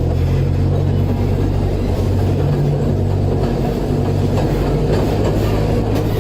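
Zoo ride train heard from aboard while moving: a steady low engine hum over the constant rumble and rattle of the cars on the track.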